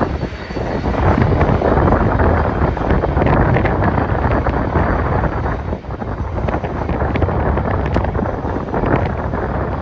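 Strong wind buffeting the microphone in uneven gusts, with a brief lull about six seconds in.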